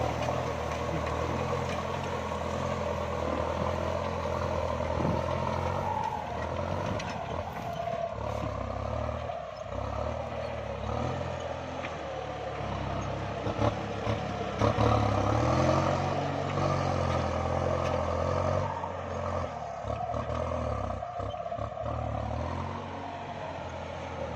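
Kubota MU5702 tractor's diesel engine working under load while plowing a wet paddy. Its note wavers up and down with the load, and there are a couple of brief sharp knocks about midway.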